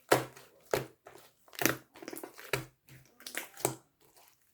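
A series of short crunching sounds, about eight in irregular succession, as of something being crushed or bitten.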